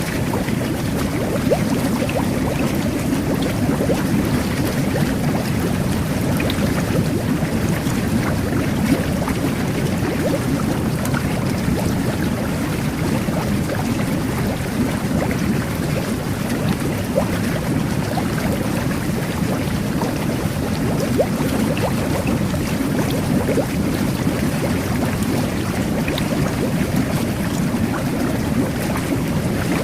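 Jet bath running: water jets churning and bubbling steadily under the bath water, with a dense patter of small bubbles popping.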